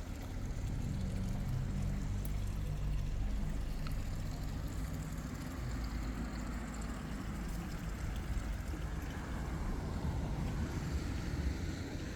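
Low steady rumble of a motor vehicle's engine running, its hum fading about halfway through, over a constant outdoor noise.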